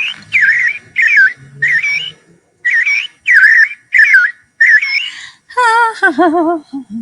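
A run of short, bird-like whistled chirps, about two a second. Then, about five and a half seconds in, a woman's voice sings a wavering note that slides down and holds low with a wide vibrato.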